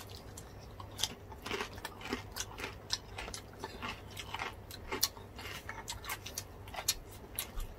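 Close-up chewing and biting into crispy deep-fried pork (bagnet and crispy pata), a run of many short, irregular crisp crunches.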